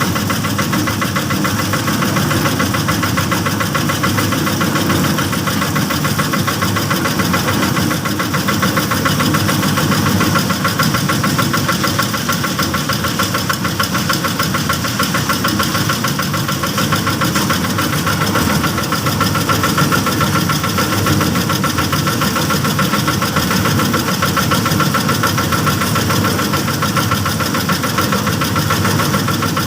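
Small engine of a bored-pile drilling rig running steadily at a constant speed, with a fast, even pulsing beat.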